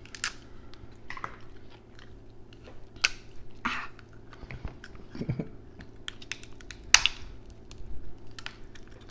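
Chewing, with scattered sharp clicks and cracks of king crab leg shells being broken and picked apart by hand.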